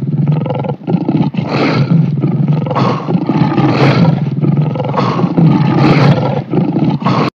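Lion roar sound effects, one roar swelling after another with barely a break, cutting off suddenly near the end.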